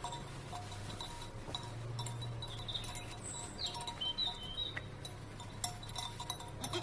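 Bells on grazing livestock tinkling irregularly, with a few short bird chirps.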